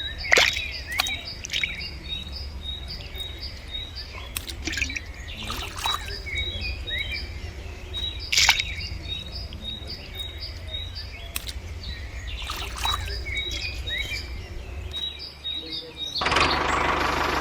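Birds chirping outdoors: a short high note repeats evenly about three times a second, with scattered sharper calls, over a low steady hum. Near the end a loud rushing noise starts suddenly.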